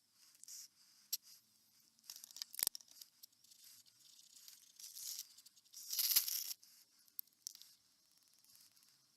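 Intermittent scratchy, crinkly handling noises with a few sharp clicks and one louder scrape about six seconds in.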